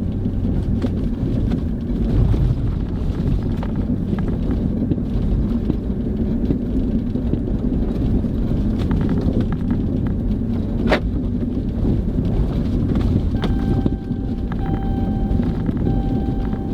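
A steady low rumble. In the last few seconds short, steady tones sound on and off over it.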